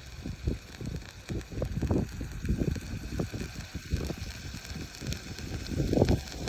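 Wind buffeting the microphone in irregular low gusts, with faint crackling from the charcoal cooking underneath.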